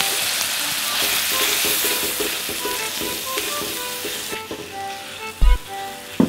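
Chicken curry puff filling sizzling in oil in a brass wok, stirred and scraped with a wooden spatula; the sizzle dies down about four seconds in. A dull knock near the end.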